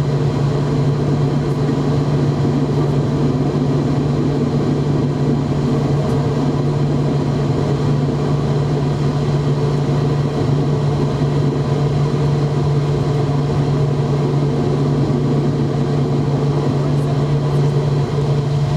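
McDonnell Douglas MD-90 airliner's IAE V2500 jet engines running at low power with a steady, unchanging drone and low hum. There is no spool-up.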